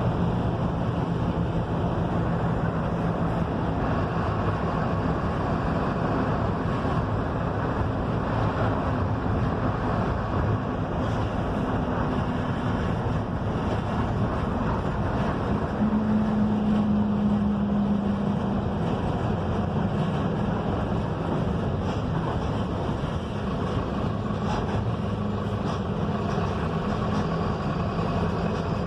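Mercedes-Benz OF-1721 front-engined diesel bus driving on the road, heard from inside: a steady engine drone over constant tyre and road noise. The engine note shifts in pitch a few times, strongest for a couple of seconds a little past halfway.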